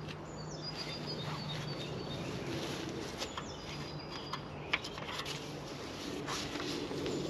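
Woodland birds singing: thin, high whistled phrases, some stepping down in pitch. There are a few sharp clicks scattered through.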